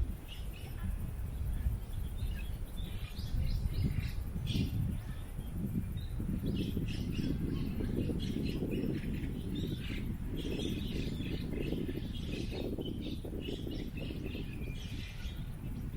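Small birds chirping many short calls, over the low, gusting rumble of wind.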